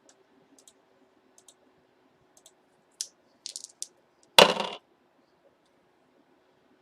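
Scattered light clicks of a computer keyboard and mouse, a quick run of them about three seconds in, then one much louder short clatter about four and a half seconds in.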